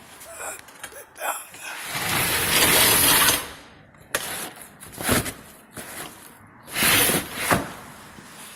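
A fire engine's equipment compartment being opened and handled. A rattling, sliding noise runs for over a second, followed by a sharp click and further clunks and shuffles as the door and gear are moved.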